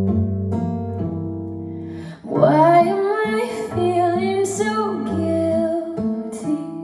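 Recorded music played through Monitor Audio Platinum 100 3G standmount loudspeakers: plucked acoustic guitar notes, then a woman's voice comes in singing a little over two seconds in.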